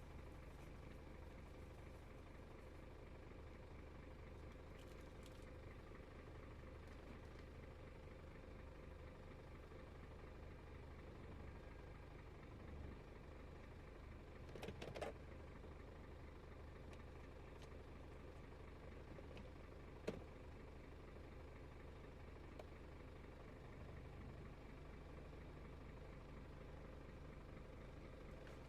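An engine idling faintly as a low, steady hum, with a few short clicks or knocks about 15 and 20 seconds in.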